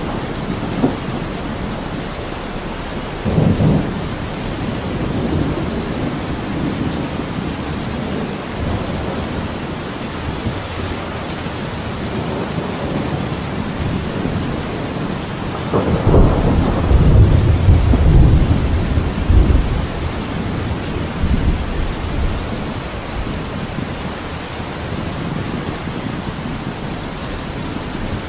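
Thunderstorm: steady heavy rain with thunder rumbling. A short roll about three seconds in, and a longer, louder rumble around the middle that lasts several seconds.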